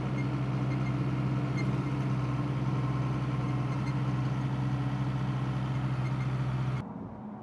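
A vehicle engine idling steadily with a low, even hum that cuts off suddenly near the end.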